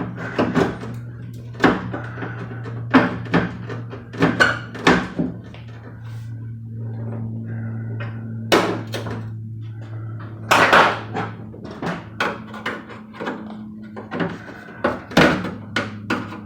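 Irregular knocks, thunks and clatters from the metal door of a pickup truck's cab as the old door glass, vent frame and window regulator are rocked and worked loose by hand, over a steady low hum.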